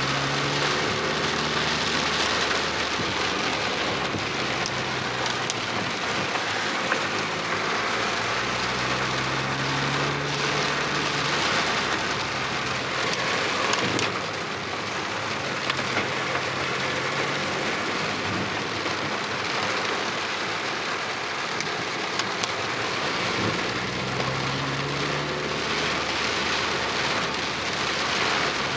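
Heavy rain falling steadily, a dense even hiss of rain pouring onto surfaces, with scattered faint drop clicks.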